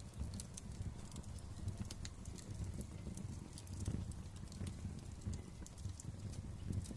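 Wood fire crackling: irregular sharp snaps and pops over a low steady rumble of the flames.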